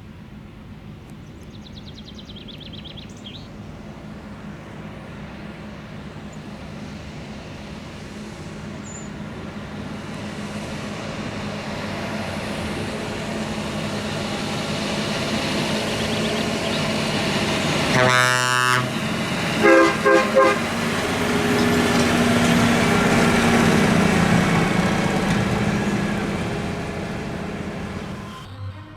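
A farm tractor's engine hum grows steadily louder as the machine approaches, peaks and passes, then fades near the end. Around two-thirds of the way through its horn gives one long blast, then two short toots.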